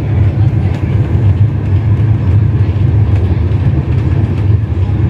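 Steady low rumble of a moving train heard inside a passenger coach.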